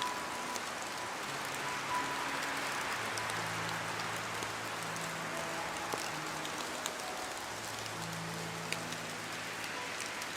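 Steady rain falling, an even hiss with scattered sharp drop ticks. Faint, soft, slowly changing held notes of background music sit low underneath.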